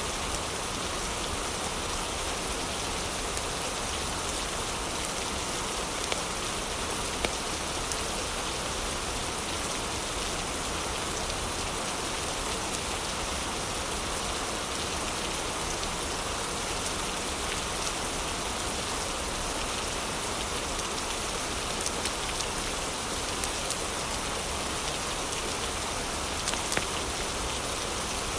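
Heavy, steady rain, with a few brief sharp crackles from a fireplace fire now and then.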